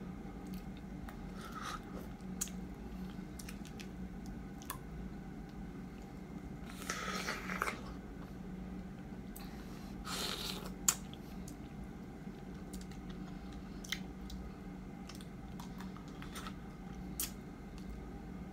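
Close-up mouth sounds of someone eating small fruits whole, skin and all: wet lip smacks and chewing clicks scattered throughout. There are two louder, longer bites about seven and ten seconds in, over a steady low hum.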